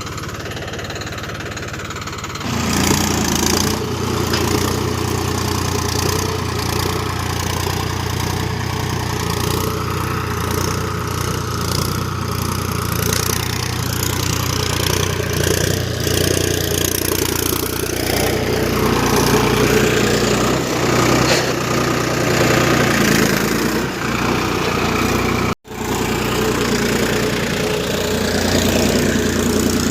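Solis 4215 tractor's diesel engine running steadily, getting louder about two seconds in. The sound cuts out for a split second near the end.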